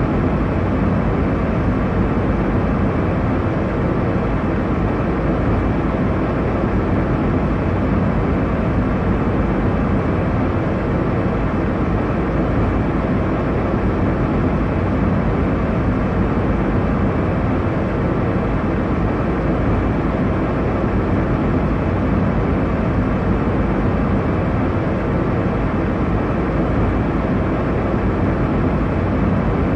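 Airliner cabin noise in flight: a steady, even rumble of engine and airflow noise, heaviest in the low end, with no changes.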